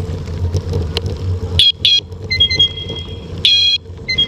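A horn sounding a pattern of high-pitched blasts, two short, one long and held, then more short ones, over the low, steady rumble of an idling vehicle engine.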